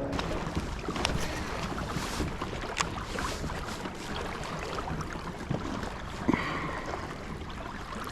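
Water and wind noise around a kayak on the water, with scattered small knocks and clicks of handling.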